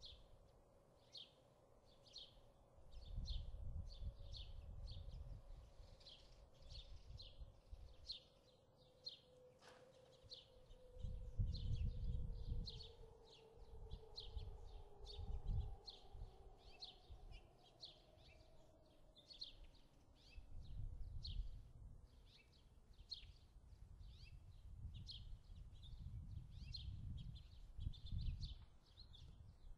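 Faint, rapid chirping, like a small bird calling about twice a second and going on throughout, over bursts of low rumble. A slowly falling hum passes through the middle.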